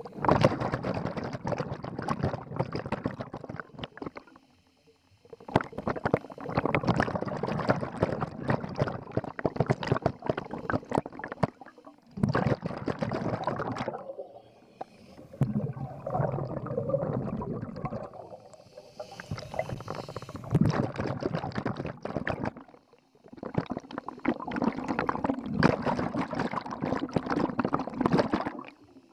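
Scuba diver's exhaled bubbles rushing and gurgling out of the regulator in bursts of several seconds, with short quiet gaps for each inhale, about six breaths in all.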